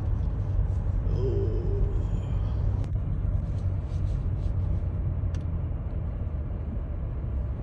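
Car driving slowly along a snow-covered residential street: a steady low engine and tyre rumble heard from inside the cabin.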